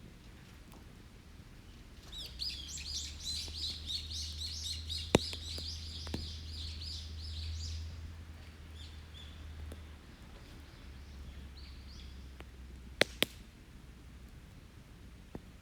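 A songbird singing a fast, high, chattering run of notes for about six seconds, then a short, fainter phrase later. Sharp pops from the wood campfire cut in once mid-song and twice in quick succession near the end.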